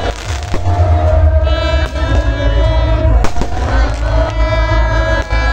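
Loud amplified music with heavy bass and a sustained melody, with fireworks bursting three times over it as sharp bangs about a second apart.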